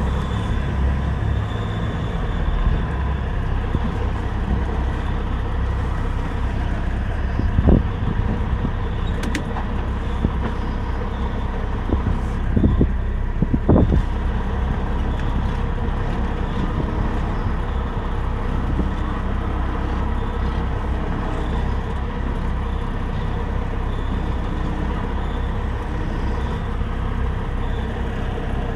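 Semi truck on the move: a steady low engine and road rumble, with a few short knocks about eight and thirteen seconds in.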